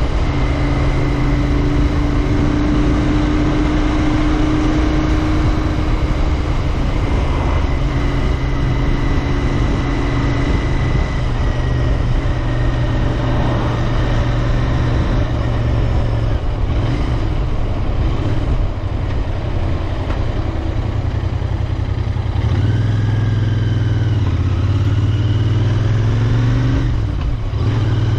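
Royal Enfield Interceptor 650's 648 cc parallel-twin engine and exhaust running steadily under way, with wind rush on the microphone. The engine note shifts in pitch a few times in the last several seconds, with a brief dip in level shortly before the end.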